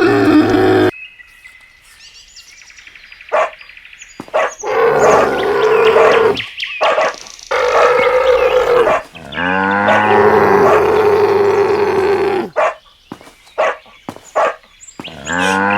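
Several long, drawn-out animal calls, dog-like howls, each held for one to three seconds with short gaps between them and a few sharp clicks in the gaps.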